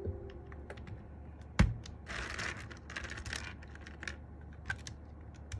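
Mechanical keyboard switches being pressed into hot-swap sockets: scattered plastic clicks, one sharp loud click about a second and a half in, and two brief rustling scrapes a little later.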